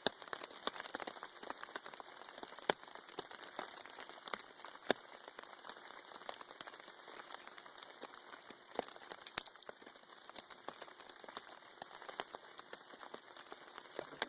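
Rain pattering on a tarp overhead, mixed with irregular sharp pops and crackles from a small kindling fire that has just been lit.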